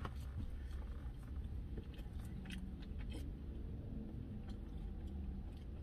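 A person chewing curly fries, with a few soft crunches about two to three seconds in, over a steady low rumble inside a car.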